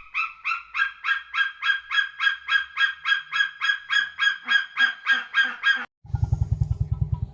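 A goose honking in a fast, steady series of about three calls a second that cuts off abruptly near the end. It is followed by a low, rapid throbbing of about eight pulses a second.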